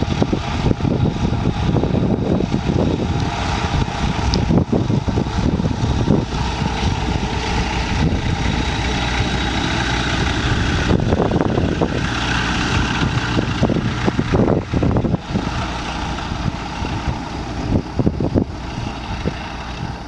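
Light single-engine propeller aircraft's piston engine running, with a steady mechanical drone that swells and eases irregularly.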